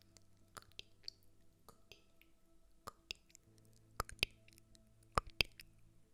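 Scattered soft ASMR clicks and taps, several coming in quick pairs, over a faint steady hum.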